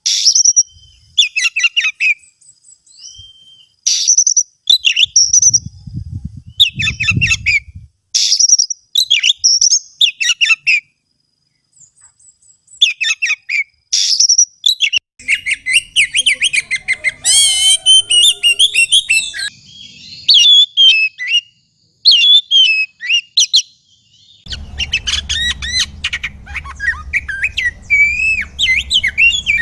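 Oriental magpie-robin (kacer) singing loud, varied phrases of high whistles and rapid chirps in short bursts with brief pauses, warbling more densely through the middle. Near the end the song continues over a steady low hum.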